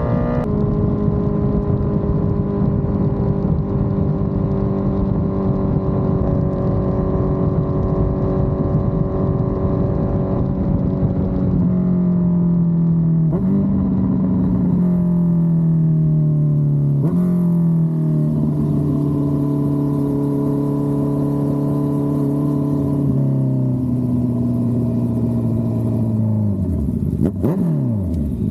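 2023 Honda CBR650R's inline-four engine through a Dominator exhaust, riding at steady revs that slowly sag. As the bike slows, the pitch jumps up and falls away several times in a row. Near the end the revs drop steeply and settle to idle.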